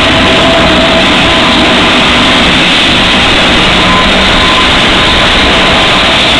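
Lockheed P-3C Orion patrol aircraft's four Allison T56 turboprop engines running. The sound is very loud and steady: a dense rush with a steady high whine over it.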